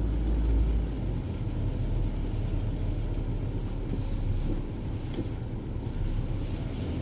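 Car driving slowly, its engine and tyres making a steady low rumble, with a brief hiss about four seconds in.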